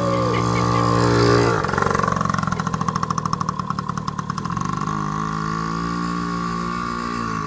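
Motorcycle engine running. It is held at a steady, higher speed, drops to an uneven, pulsing idle about a second and a half in, is raised again about five seconds in, and drops back near the end.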